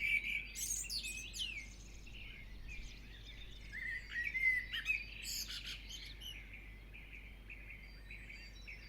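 Birds chirping and singing, several short whistled calls overlapping. The calls are busiest in the first two seconds and again around four to six seconds in, then thin out and grow fainter.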